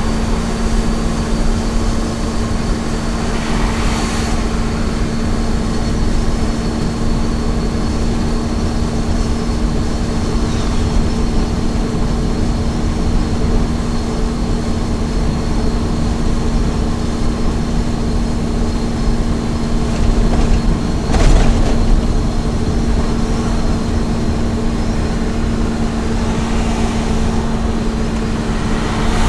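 Small truck's engine and road noise at a steady highway cruise, a constant-pitched hum over an even rush of noise. Two brief whooshes sound about 4 seconds in and, louder, about 21 seconds in.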